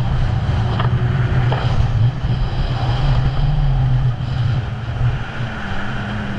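Jet ski engine running steadily, with wind noise on the microphone.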